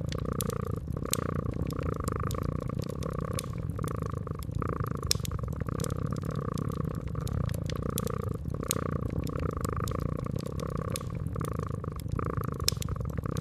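Domestic cat purring steadily, the purr swelling and fading about once a second, with frequent crackles and pops of a wood fire over it.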